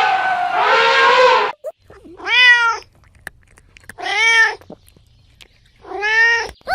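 A cat meowing three times, each meow short and arched in pitch, about two seconds apart. A longer, drawn-out pitched call fades out in the first second and a half.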